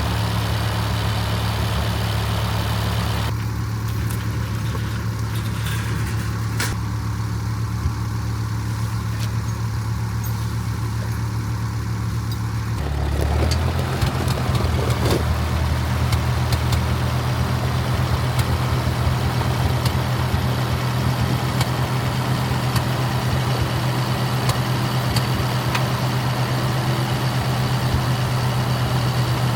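Farm tractor engine running steadily, then picking up speed about halfway through and running a little louder after.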